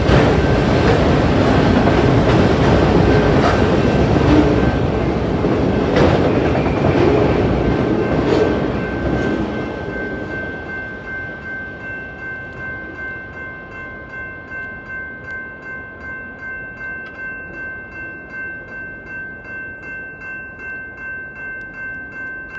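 A Union Pacific freight train's rail cars roll past over the crossing with loud rumbling and clicking wheels, fading away about nine seconds in as the train clears. The crossing's electronic bells (GS Type 2 E-Bells) then ring alone in a steady, rhythmic ding that lasts to the end.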